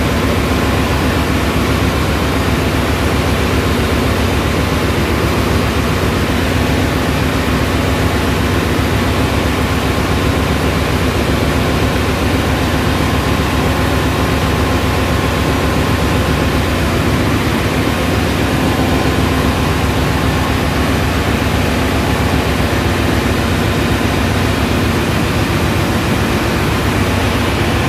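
Ship's engine room machinery running: a loud, steady din with a low rumble and a faint hum, unchanging throughout.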